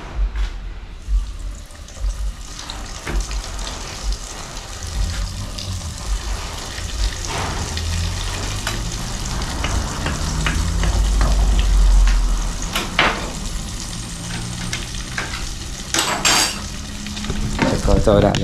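Aloo pies (dough stuffed with potato) frying in hot oil in a cast-iron pot, a steady sizzle and crackle, with a metal knife clicking against the pot as they are turned. A brief loud rustle comes near the end.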